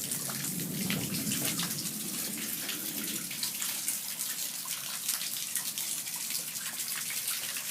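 Rain falling and dripping, a steady wash of water sound dotted with many small drop clicks.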